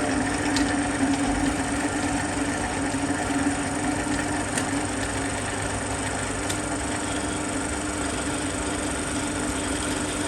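Drill running steadily with a hole cutter, its centre pilot bit boring into a lubricated metal plate: an even motor hum with a few faint ticks.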